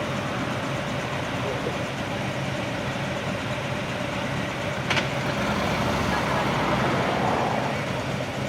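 Vehicle engine idling with a steady hum, one sharp click about five seconds in, and a swell of louder street noise in the second half.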